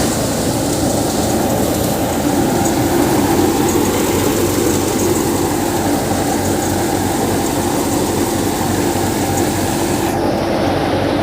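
Tractor-driven Gill seven-fan paddy thresher and its Sonalika 50 RX tractor running steadily together, a loud, dense mechanical rumble. The high hiss in it drops away abruptly about ten seconds in.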